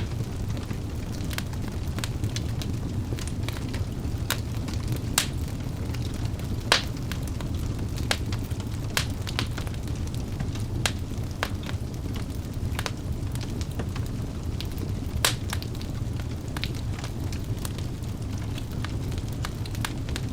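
Wood fire burning in a fireplace: a steady low rumble of flame under frequent irregular crackles, with a few louder pops from the logs.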